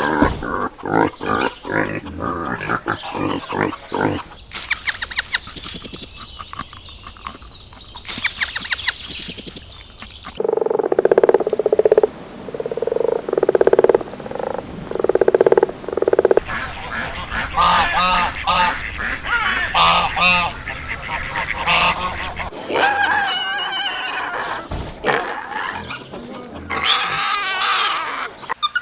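Farm animals calling one after another: a run of rhythmic grunts at the start, then a hissing stretch, then five steady calls in a row, then a busy flurry of waterfowl-like calls.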